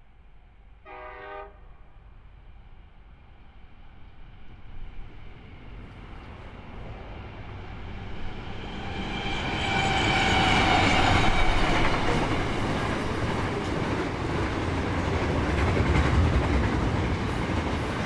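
Diesel-hauled freight train passing. A short horn blast sounds from the distance about a second in. The locomotive then grows louder and passes at its loudest about ten seconds in, followed by the steady rumble and clatter of cement tank wagons rolling by.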